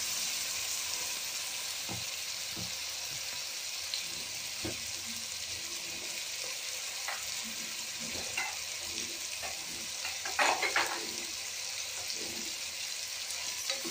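Marinated chicken sizzling steadily in oil in an aluminium pressure cooker, stirred with a spatula that scrapes and knocks against the pot now and then. A quick cluster of louder scrapes comes about ten seconds in.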